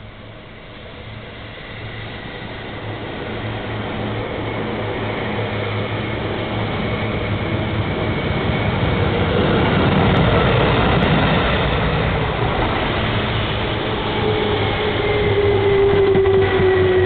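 A yellow Seibu Shinjuku Line electric train approaches and runs past, its rumble on the rails growing louder. Late on, its motors whine in slowly falling tones as it slows down.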